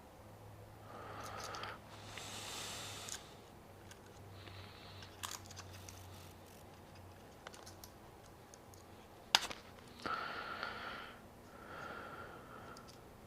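Faint handling sounds of parts being fitted by hand: scattered clicks and scrapes, with one sharp click about nine seconds in, and several short hissy rustles.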